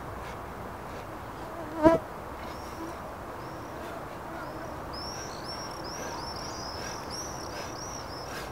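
Outdoor background with a bird calling in quick, repeated, high arched chirps, sparse at first and coming thick and fast from about halfway. One short, loud, pitched cry comes about two seconds in.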